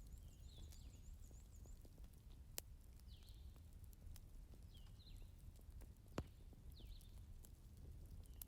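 Wood fire burning in a fireplace: faint, steady crackling over a low rumble, with two sharper pops a few seconds apart. Faint short high chirps recur every second or two.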